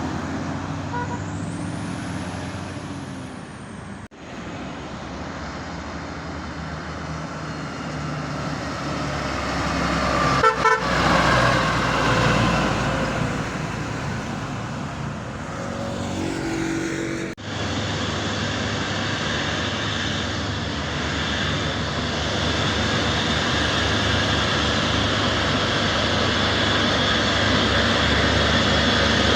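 Heavy truck diesel engines labouring on a steep uphill road, mixed with passing traffic. There are brief horn toots about ten seconds in.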